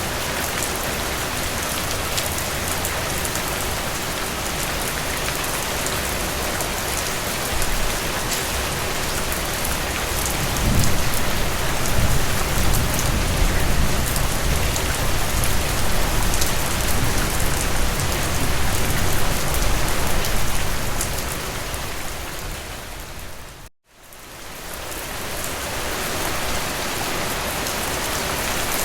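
Heavy rain falling steadily. About a third of the way in, a deeper low rumble swells beneath it and lasts for some seconds. Near the end the rain fades out to a moment of silence and fades back in.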